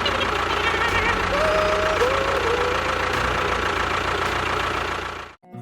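An engine running steadily with a low, fast pulsing beat, which cuts off suddenly near the end.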